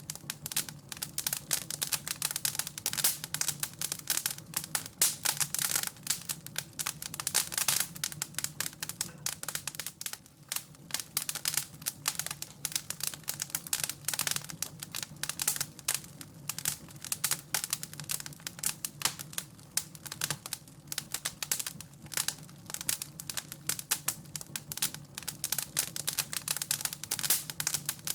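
Wood fire crackling in a fireplace: a dense, irregular run of sharp pops and snaps that never lets up, over a steady low hum.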